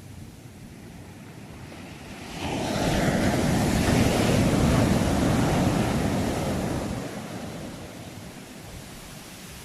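Sea waves: over a soft, steady hiss of surf, one wave swells up about two seconds in, breaks and washes through, then fades away about seven seconds in.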